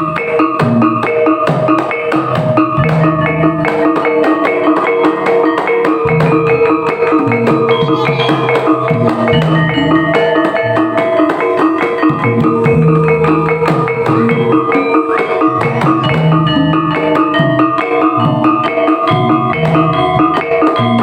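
Javanese folk percussion ensemble music of the kind that accompanies Topeng Ireng dance: ringing metal-keyed gamelan instruments sounding held, repeated notes over a steady, repeating drum pattern.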